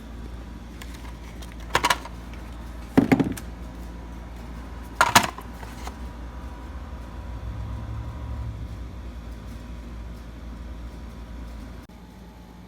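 Three sharp metal clanks, about two, three and five seconds in, as a hole saw and its bit are handled and tightened on the arbor, over a steady low hum that stops suddenly near the end.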